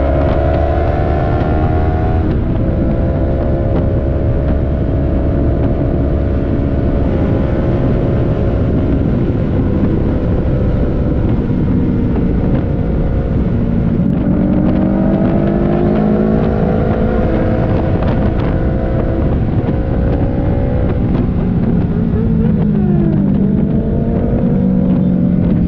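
Yamaha R3 sport bike's parallel-twin engine under way: the pitch climbs steadily through each gear, then drops back at the shifts, several times. A steady rush of wind on the helmet microphone runs under it.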